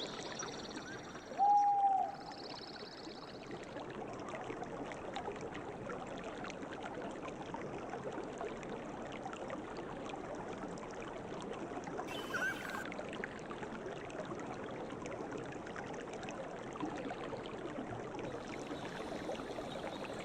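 A river flowing steadily, with birds calling over it: a loud short arched call about a second and a half in, a trill soon after, and a brief chirp about twelve seconds in.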